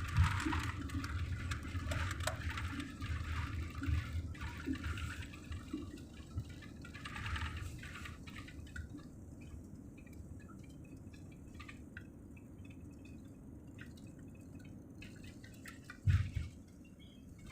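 Jet airliner cabin noise fading as the plane slows after landing: the engine and air rush die away over several seconds and settle to a low, steady hum. A single short thump sounds about sixteen seconds in.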